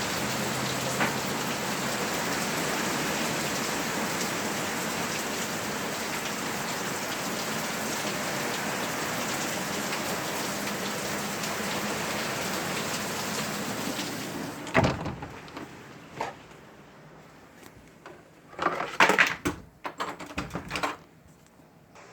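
Heavy rain falling, a steady even hiss that fades away after about fourteen seconds. A sharp knock follows, then a short run of loud irregular clattering and crackling near the end.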